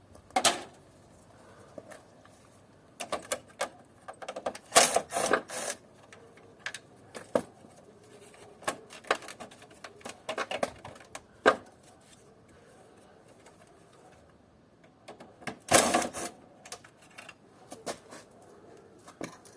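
Irregular clicks, rattles and knocks of plastic and metal parts and hand tools being handled while an old air conditioner is taken apart, with the loudest clusters of strikes about half a second in, around five seconds in, and near sixteen seconds.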